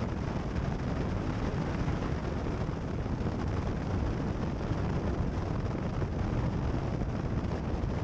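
Cessna 172 Skyhawk cockpit noise heard through the headset intercom feed: a steady low rumble of engine and airflow with no change.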